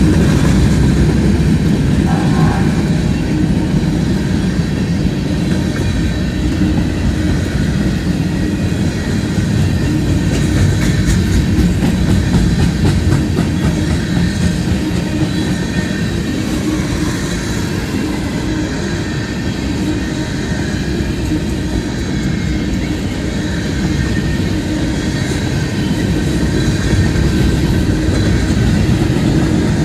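A train rolling past, with a steady, continuous rumble of wheels on the rails and a clickety-clack over the rail joints.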